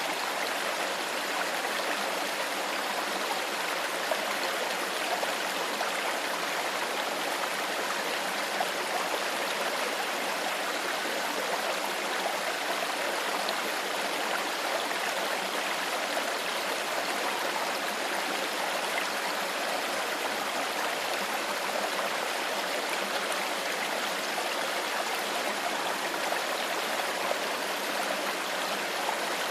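Clear shallow stream flowing, a steady, even rush of running water over rocks with no change throughout.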